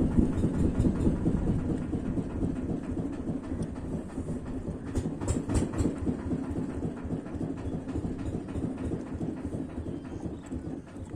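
Boat engine running with a low, rapidly pulsing rumble that fades gradually, with a few faint clicks about halfway through.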